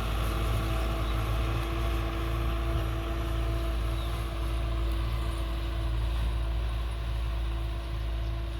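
Belarus 510 tractor's diesel engine running steadily at a constant pitch while working the field.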